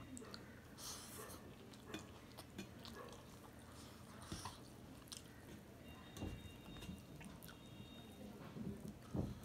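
Faint, close-up chewing of a mouthful of rice and leafy-greens chorchori, with soft wet mouth smacks and small clicks. Fingers mix and squish rice against a steel plate.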